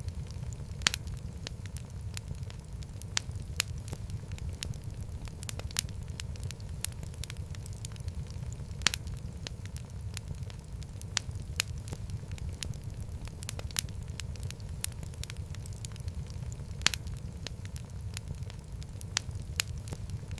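Fireplace fire burning steadily, with a low rumble and irregular sharp crackles and pops from the burning wood, a few louder pops standing out.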